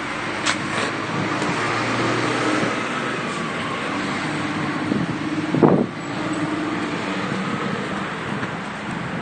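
Road traffic noise: vehicles running past, with a brief louder sound a little past halfway.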